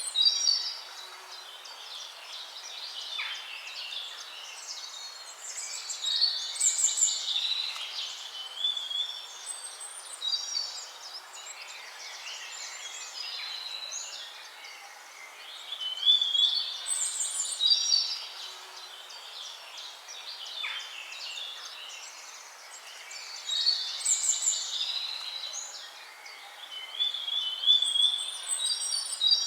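Songbirds singing, with bright chirping and warbling phrases that swell into louder bursts every few seconds over a steady background hiss.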